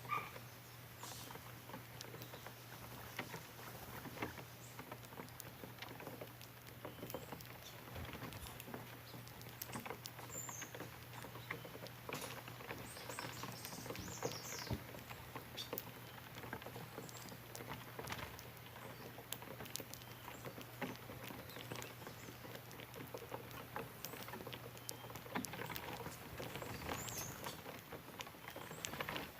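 Small songbirds feeding on corn: frequent light, irregular clicks and taps of beaks pecking at kernels, with a few brief high chirps.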